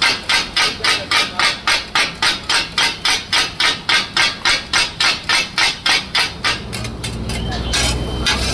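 Egg kothu parotta being chopped on a griddle with a pair of flat metal spatulas: a fast, even clatter of strikes, about three to four a second. The strikes stop about two-thirds of the way through, leaving a low rumble.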